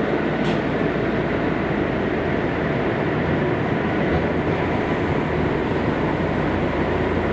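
Steady running noise heard inside a Kobe City Subway 5000-series linear-motor metro car travelling through the tunnel, with a faint click about half a second in.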